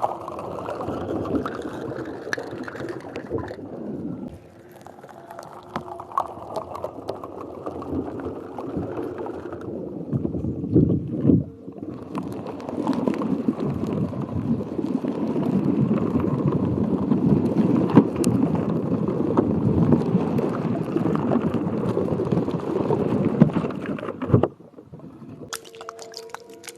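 Water gurgling and sloshing in a dense run of small splashes, with a brief break about halfway through, stopping suddenly near the end.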